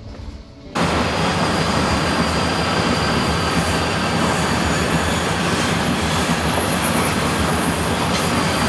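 Taiwan Railway train passing close by: a loud, steady rush of wheels on the track with a steady high whine above it. It starts suddenly about a second in.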